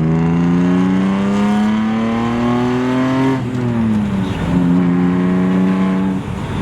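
BMW car engine accelerating hard: the revs climb steadily, drop sharply at a gear change about three and a half seconds in, climb and hold again, then fall as the throttle comes off near the end.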